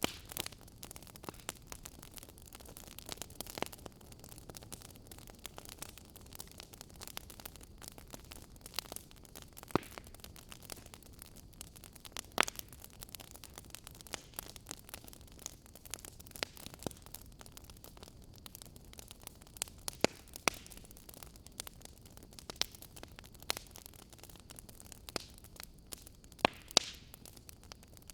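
Campfire burning, with irregular sharp crackles and pops over a steady faint hiss, a few pops louder than the rest.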